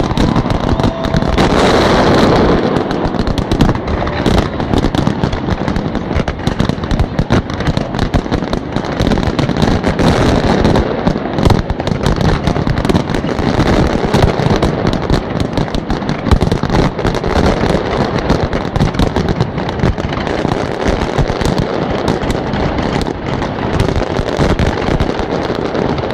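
Big fireworks display going off in a dense, continuous barrage of bangs and crackling, with shells bursting in rapid succession throughout.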